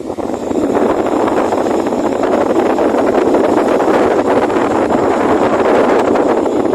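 Mondial Turbo Pro 55 electric fan running, its air stream rushing loudly and steadily over the microphone. It builds to full strength within the first second, just after being switched on.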